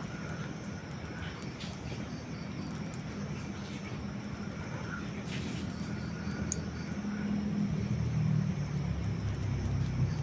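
Wood fire crackling, with a few sharp pops, under a low rumble that grows louder through the second half.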